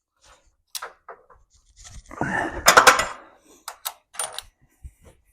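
Loose metal hardware and tools being handled on a workbench: scattered sharp clicks and clinks, with a longer rustling clatter about two to three seconds in.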